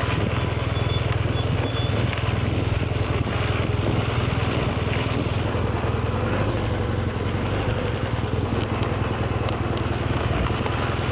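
BMW GS motorcycle's boxer-twin engine running steadily while riding, with wind noise over the microphone.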